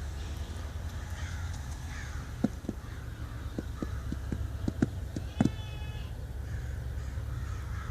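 1946 Dodge truck engine idling, a steady low rumble with irregular light clicks over it. A brief harsh squawk comes about five and a half seconds in.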